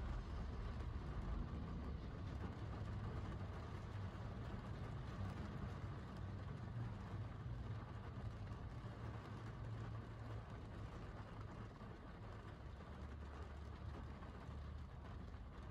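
Steady rain pattering on window glass, heard from inside, over a steady deep low rumble.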